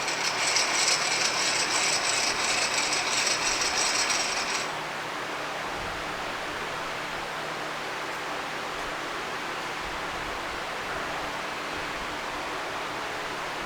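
Rapid mechanical ratcheting clicks for about four and a half seconds, then they stop suddenly, leaving a faint steady background hum.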